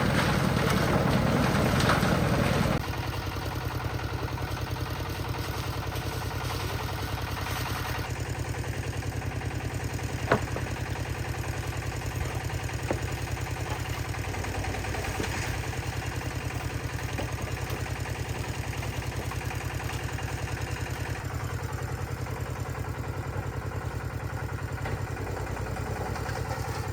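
Concrete mixer's engine running steadily. The engine gets quieter about three seconds in, and there is a single sharp knock about ten seconds in.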